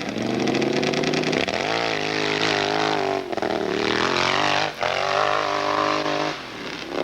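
Harley-Davidson hillclimb motorcycle engine revving hard on a climb. Its pitch rises and falls several times as the throttle is worked, with brief drops in power along the way.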